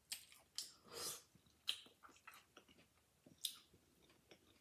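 Close-up chewing of a crunchy hard-shell taco: quiet wet crackles and crunches in short, scattered bursts, the longest about a second in.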